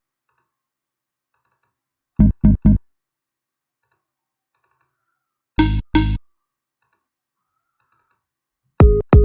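Short synthesizer chord stabs in separate groups: three quick hits about two seconds in, two more near the middle, and two at the end, with near silence and faint ticks between them.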